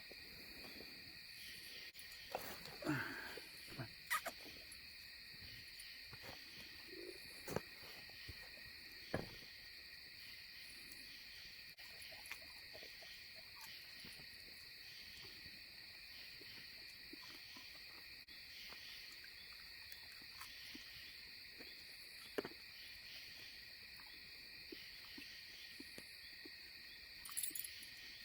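Crickets trilling in a steady, continuous chorus at two pitches, with a few scattered sharp snaps or pops.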